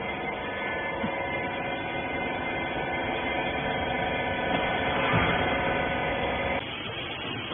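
Small rag baler's electric motor running with a steady hum, which stops abruptly about a second before the end.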